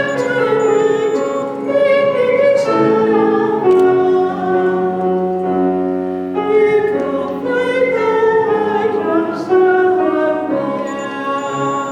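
Small vocal ensemble singing with piano accompaniment, holding long notes with vibrato.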